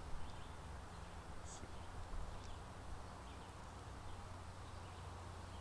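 Faint outdoor background: a steady low hum under a soft hiss, with a brief faint high chirp about a second and a half in and a few faint ticks.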